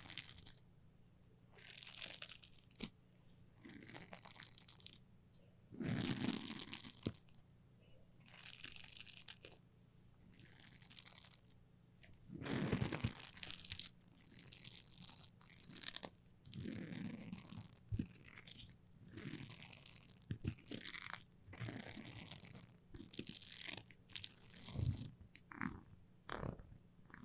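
A sticky surface being peeled apart close to the microphone, again and again: short tearing, crunching bursts about every second or two with brief quiet gaps between them.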